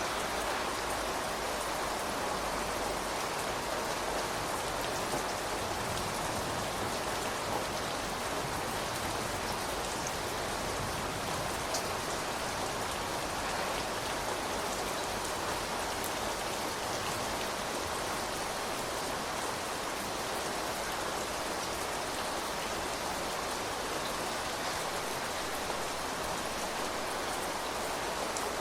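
Steady rain falling on surfaces, an even hiss with a few individual drops ticking.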